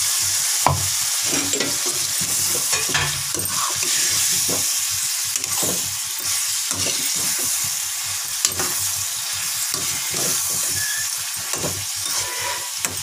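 Potato and cauliflower pieces sizzling in oil in a kadhai with freshly added garlic-ginger-onion paste frying, while a metal spoon stirs quickly and steadily, its strokes scraping and knocking against the pan.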